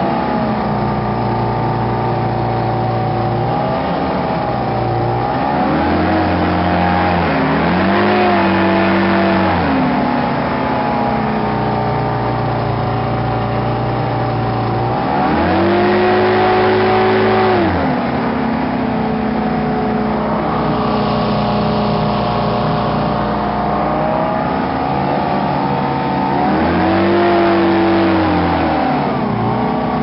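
Hovercraft engine running continuously, revving up, holding and dropping back three times.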